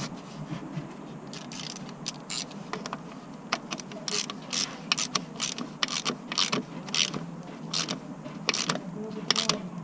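Sharp metallic clicks and clacks at an uneven pace, about one to three a second, from hand tools working on the car.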